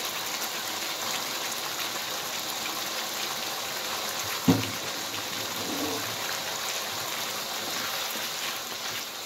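Chili sambal with salted squid sizzling and simmering in a wok, a steady hiss. About halfway through there is one sharp knock of the spatula against the wok.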